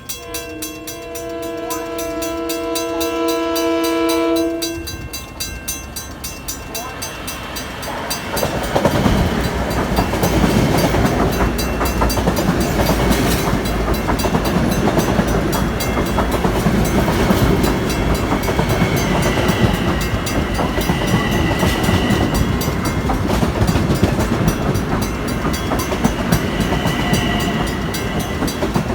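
Train horn sounding one long, steady blast that swells and then stops about five seconds in. A few seconds later the train passes close by with loud rumbling and rapid wheel clatter over the rail joints that runs on to the end.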